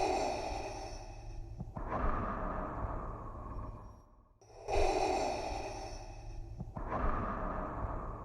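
Darth Vader's respirator breathing sound effect: a mechanical, hissing breath drawn in and let out in a slow, even rhythm. Two full breaths, each in two parts, one beginning about every four and a half seconds.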